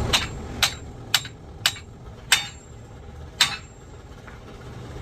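Hammer blows on metal: six sharp, ringing strikes, about half a second apart at first and then further apart.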